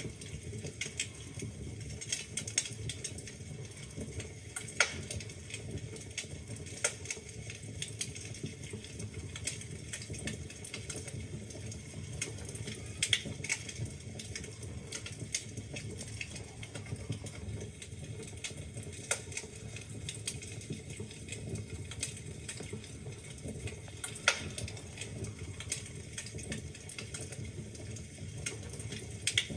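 Wood fire crackling in a fireplace: a steady low burning rumble with irregular small crackles and a few louder pops, at about 5, 13 and 24 seconds.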